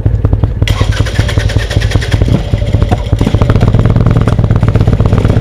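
V-twin motorcycle engine running with a rapid, even pulsing from the exhaust. It gets a brighter, harsher rasp from just under a second in to about two seconds, and again around three seconds.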